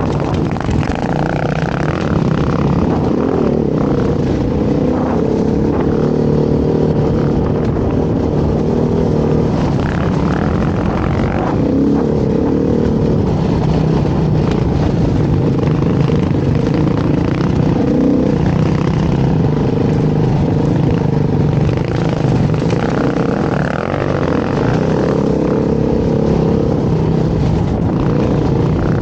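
Dirt bike engine running under way, its pitch rising and falling continually as the throttle is opened and closed.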